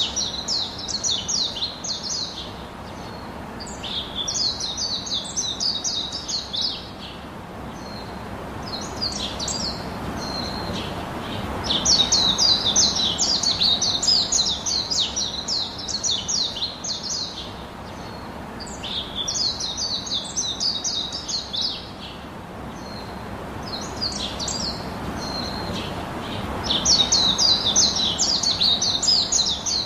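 Small birds chirping in quick, repeated bouts of a few seconds each, over the steady hiss of curry sizzling in a wok.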